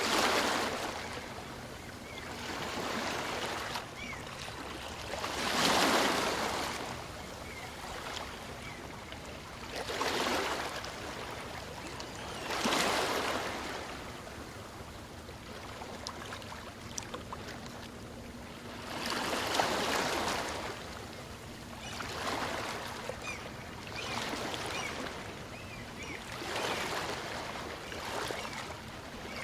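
Small waves on a calm sea breaking and washing in and out, a rushing swell every two to four seconds that builds and fades away.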